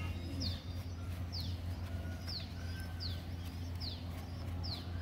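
A bird giving a short high chirp that falls in pitch, repeated about once a second, over a steady low hum.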